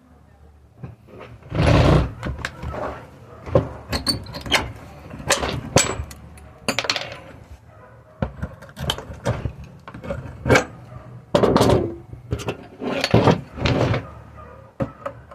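A run of irregular knocks, clatters and short scrapes, starting about a second and a half in, typical of material being handled at a workbench.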